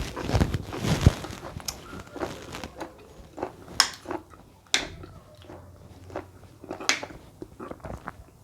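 Close-miked eating of soft cooked plantain: wet chewing and mouth noises, with a denser stretch in the first second, then a few sharp smacks or clicks.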